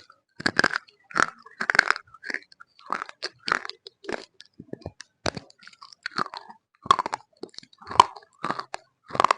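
Close-up crunching and chewing of roasted Multani mitti (fuller's earth clay), with sharp bites about twice a second.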